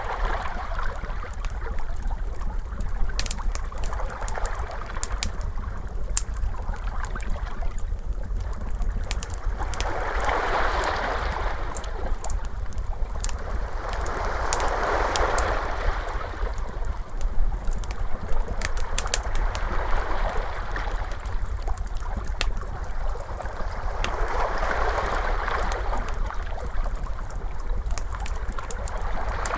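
Wood fire crackling with many sharp pops, layered over ocean waves that wash in as slow swells every several seconds, with a steady low rumble underneath.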